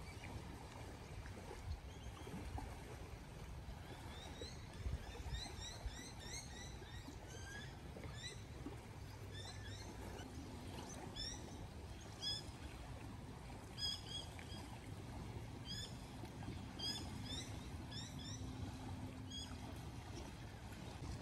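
Small birds chirping in many short, high notes over a faint, low, steady background rumble. A faint low hum joins about halfway through.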